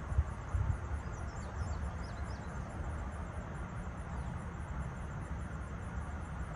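Steady low rumble of outdoor background noise, with a few faint, short, high chirps from small birds between about one and two and a half seconds in.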